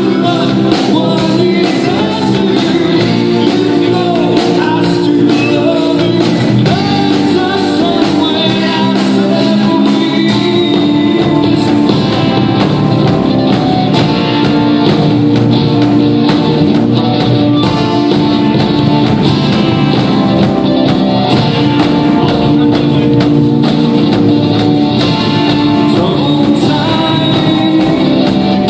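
Rock band playing a song with a lead singer, guitar and drums.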